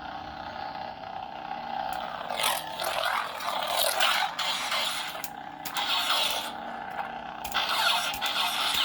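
An electronic lightsaber hilt's sound board playing its blade sound effects through its small speaker: a steady low hum with noisy swells that rise and fall irregularly.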